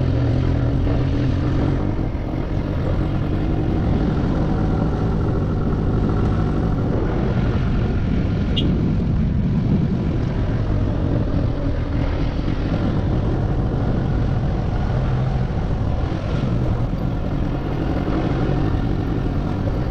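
Motorcycle engine running steadily while riding, with a constant low rumble of engine and road noise.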